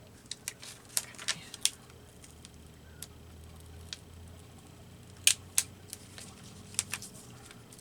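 Scattered sharp clicks and taps of paper being handled and lifted from the work surface, about a dozen at irregular intervals, the loudest pair just past five seconds in. A faint steady low hum runs underneath.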